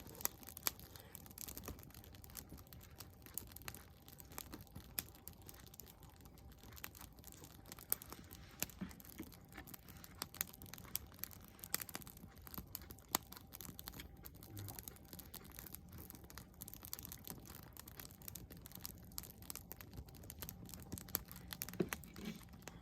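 Wood campfire crackling, with irregular sharp pops and snaps over a quiet steady background.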